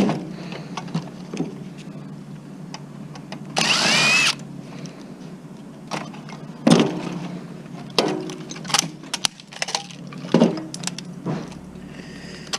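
Plastic and metal clicks and knocks as a CD player and iPod dock is taken apart by hand to get at its circuit board. About four seconds in there is one loud half-second burst with a wavering pitch.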